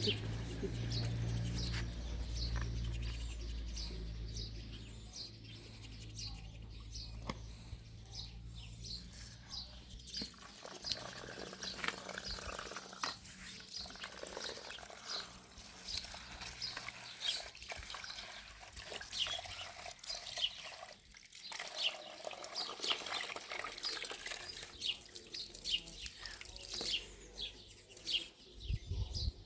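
Small birds chirping over and over in short, quick, high chirps. A low steady hum sounds underneath for the first third and stops about ten seconds in.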